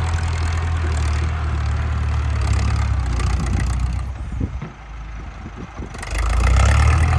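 Ford 6640 tractor's diesel engine running with a loud exhaust while pushing dirt. It eases off for about two seconds around four seconds in, then picks back up near the end.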